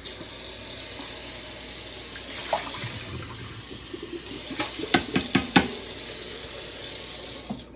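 Kitchen tap running steadily into the sink while a container is rinsed, with a handful of sharp knocks of the container against the sink about five seconds in; the water shuts off near the end.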